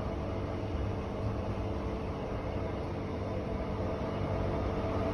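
Moving train running, a steady rumble with a faint steady hum.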